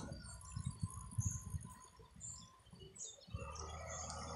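Faint, high-pitched bird chirps: a few short calls about a second apart, over low muffled thumps in the first half.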